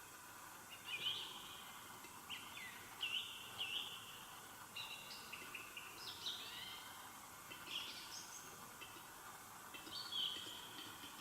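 Forest dawn chorus: several songbirds singing short whistled and chirping phrases, one after another and overlapping, over a faint background hiss.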